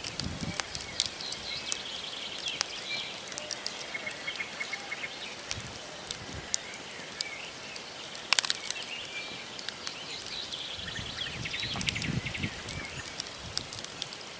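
Wood campfire crackling, with frequent small snaps and one loud pop about eight seconds in. Small birds chirp faintly in the background.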